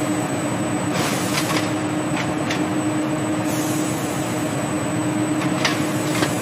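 Steady mechanical running noise with a constant low hum and a few scattered sharp clicks.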